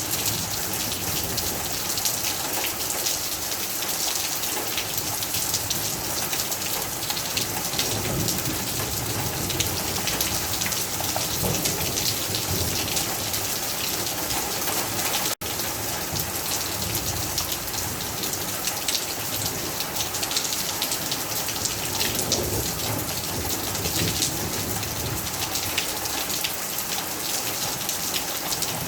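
Heavy rain falling steadily, a dense patter of drops striking surfaces, with low rumbles that come and go. About halfway through, the sound cuts out for an instant.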